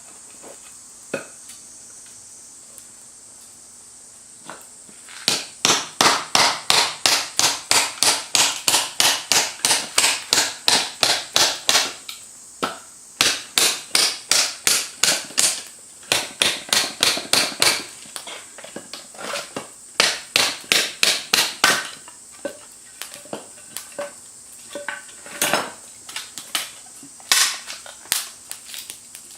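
A rapid, regular run of sharp knocks, about three a second, in several runs a few seconds long, then scattered single taps near the end.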